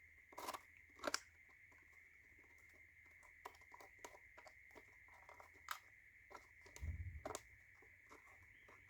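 Wooden tiles of a laser-cut slide picture puzzle being slid around by hand, giving scattered faint clicks and knocks as they shunt against each other, with a slightly heavier knock and thump about seven seconds in. The tiles are being scrambled to lock the puzzle box shut.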